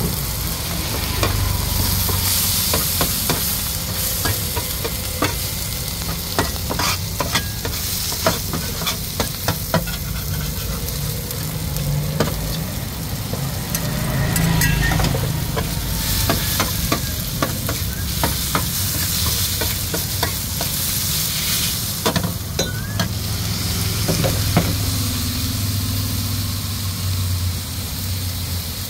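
Minced meat and noodles sizzling on a large flat steel wok, with a metal spatula scraping and clacking against the pan many times as they are stir-fried. A low steady rumble runs underneath.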